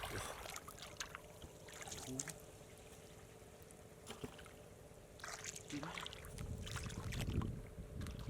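Water splashing and trickling in irregular bursts, as of someone working by hand in shallow water, with a few separate splashes and a heavier sloshing near the end.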